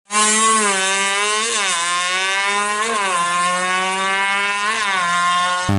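Yamaha F1ZR's single-cylinder two-stroke engine, tuned to 116 cc, revving high and steady with three short throttle blips that jump the pitch up and back down.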